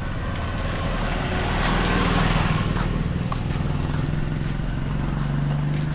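A motor vehicle's engine running steadily, with road noise that swells about two seconds in and a few light clicks.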